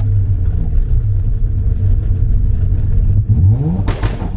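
Car engine running steadily, then revving up with rising pitch near the end, topped by a brief loud burst of noise.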